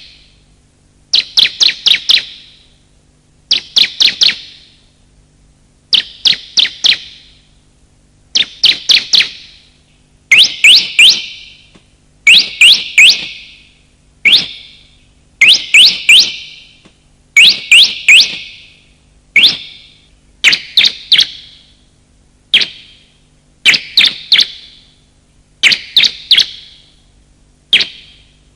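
Bar-winged prinia (ciblek) calls: a quick run of three to five sharp, high chirps, repeated about every two seconds.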